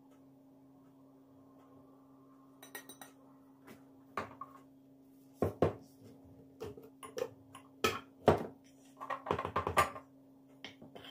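Dishes and utensils clinking and knocking as they are handled, in irregular knocks that grow busier and louder through the second half, over a steady low hum.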